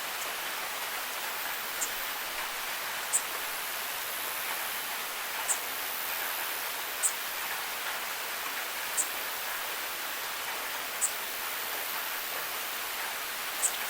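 Steady rain falling on hard surfaces, an even hiss, with a short, sharp high tick standing out every two seconds or so.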